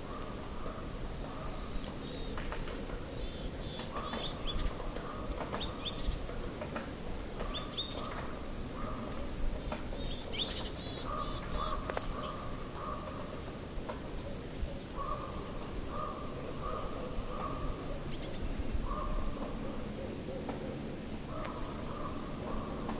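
Birds calling: short runs of repeated, lower calls every few seconds, with scattered high chirps between them.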